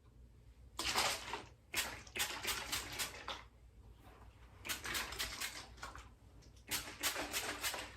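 Non-aerosol pump hairspray being spritzed: a series of short hissing sprays in quick clusters, several pumps at a time.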